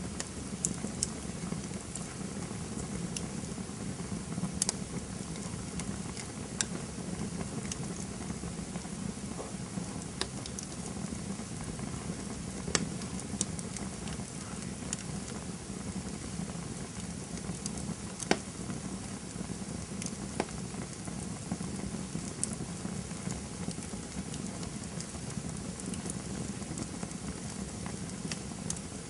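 Campfire burning: a soft steady rush of flame with irregular crackles and occasional sharper pops of the wood.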